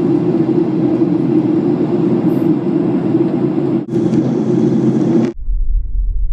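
Boeing 737-800 cabin noise in flight: a steady engine and airflow rush, with a short break just before 4 s. A little after 5 s it cuts off suddenly, and a deep low rumble follows.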